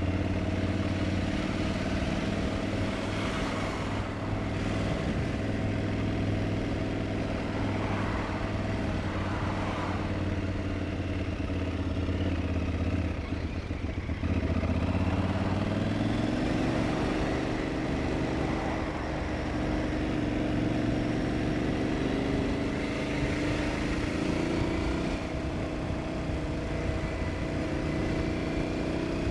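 Aprilia Tuareg 660's parallel-twin engine running steadily under way at modest speed. About halfway through, its pitch drops briefly and then climbs as the bike accelerates again.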